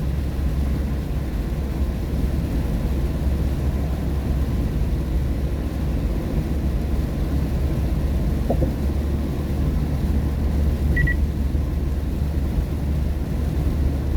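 Car cabin road noise while driving on a rain-wet road: a steady low rumble of tyres and engine. A single short high beep sounds about eleven seconds in.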